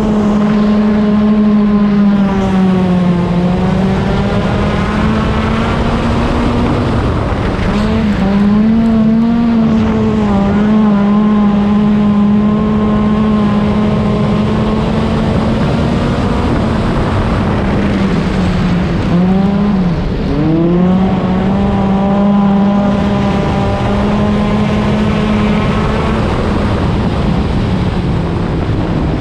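Stock car engine running hard at high revs, its note holding steady for long stretches, dipping in pitch and climbing back a few times as the throttle is lifted and reapplied, most sharply about twenty seconds in.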